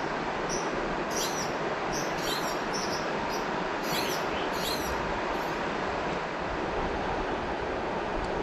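River water flowing steadily, with a bird giving a string of short, high chirps that stop about five and a half seconds in.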